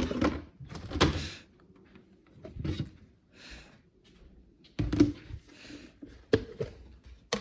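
A kitchen door and food containers being handled: a series of separate knocks and thuds, the sharpest about a second in and near five seconds, with softer rustling between.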